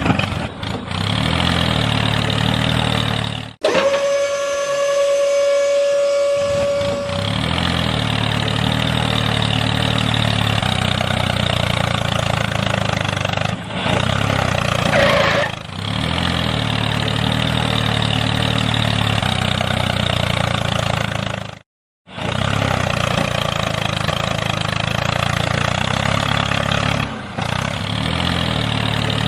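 An engine running steadily with a low, even throb, broken by abrupt cuts. Early on, a steady high tone replaces it for about three seconds, and about two-thirds of the way through the sound drops to silence for a moment before the engine comes back.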